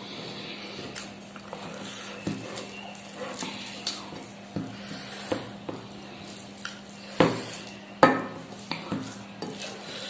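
Dishes and utensils clinking and scraping in irregular short knocks, with two louder knocks about seven and eight seconds in, over a faint steady hum.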